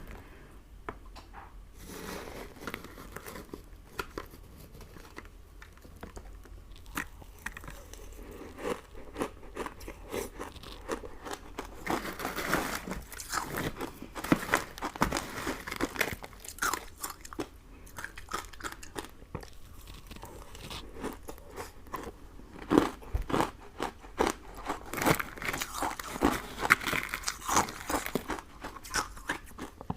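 Close-miked eating of sugary sweets: repeated crisp bites and crunchy chewing, with crackling clicks that come thick and fast in two busier spells, the second starting a little past the middle.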